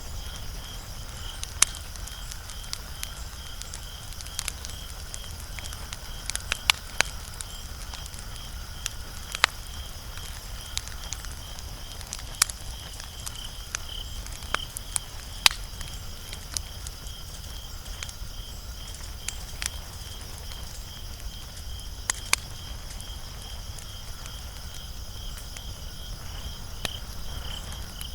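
Wood fire crackling: irregular sharp pops and snaps over a low steady hiss, with a high pulsing chirp repeating a few times a second behind it.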